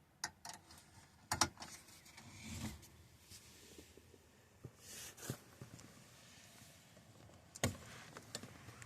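A few scattered clicks and knocks, the loudest about a second and a half in and another near the end, with a couple of short rustles between them.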